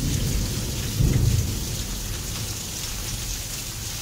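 Heavy rain pouring steadily, with a low rumble that swells about a second in and then eases back.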